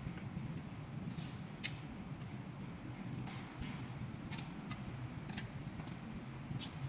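Light metallic clicks and clinks of hand tools, coming irregularly about once or twice a second, over a low steady hum.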